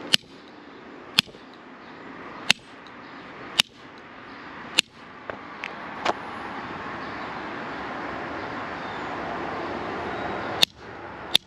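Channel-lock pliers striking soldered copper pipe, sharp metallic hits with a short ring, about one blow every second, then a pause and two more blows near the end. The soldered joints are being beaten to try to crack them, and they are still holding without leaking.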